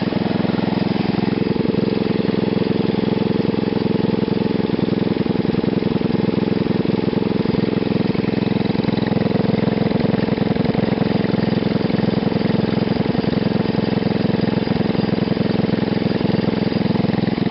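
Engine running through a home-built GEET fuel-reformer reactor, idling steadily at low RPM with no change in speed.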